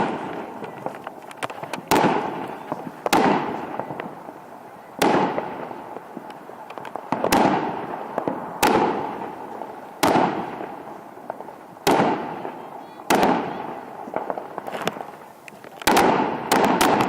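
Fireworks going off: about a dozen sharp bangs, one every one to two seconds, each trailing off in a fading hiss, with several in quick succession near the end.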